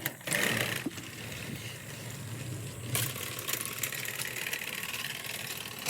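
Battery-powered Thomas & Friends toy train motors running steadily: a whirring of small motors and gears as two toy engines push against each other on the track.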